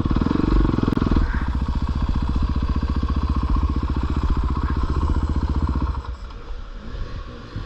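450cc four-stroke dirt bike engine pulling under throttle up a short, steep hill climb, its firing pulses steady and strong, then easing off to a much quieter low-speed run about six seconds in.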